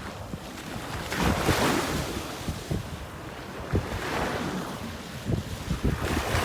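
Wind buffeting the microphone over sloshing water, the noise swelling and easing in gusts, with scattered low thumps.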